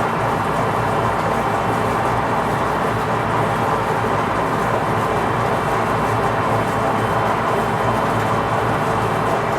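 Metalworking lathe running steadily, a continuous machine noise with a low hum underneath.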